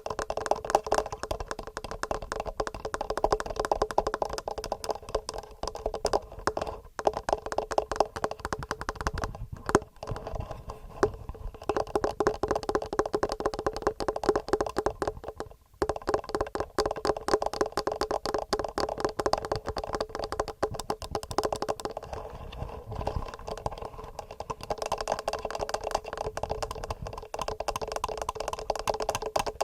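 Fingernails tapping fast and steadily on a TASCAM recorder's microphones: a dense run of quick clicks that pauses briefly about fifteen seconds in.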